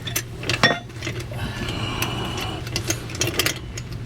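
Scattered metallic clicks and light knocks from hand work with tools and a hydraulic jack under a truck, over a steady low hum.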